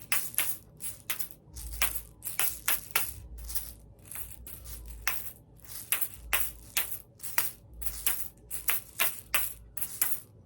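A West African hand rattle made of seeds, shaken in a rhythm of sharp rattling strokes, about two to three a second and slightly uneven, played by someone still new to the instrument.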